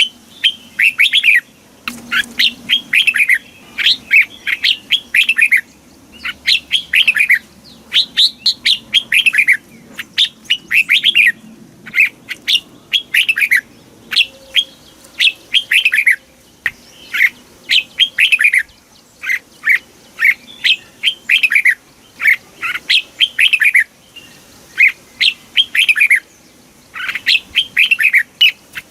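Red-whiskered bulbul singing: phrase after phrase of quick, bright whistled notes that arch up and fall, with short pauses between phrases.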